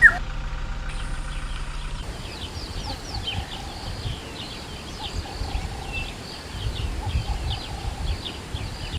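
A vehicle engine idles for about two seconds, with a sharp click at the start. Then a busy chorus of wild bird calls takes over: many quick chirps and whistles repeated rapidly, with a low rumbling underneath.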